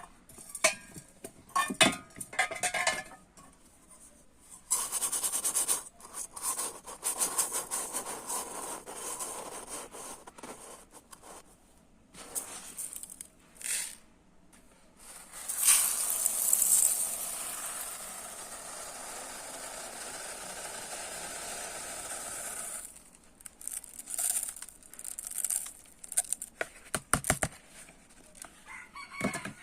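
Dry rice grains being scooped and poured: rattling scrapes of scooping and runs of hissing grain streaming down, with one long steady pour from about halfway through.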